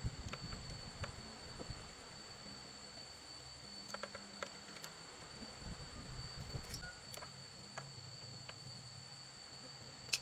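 Scattered light clicks and knocks, loudest right at the start and near the end, over a steady high-pitched whine.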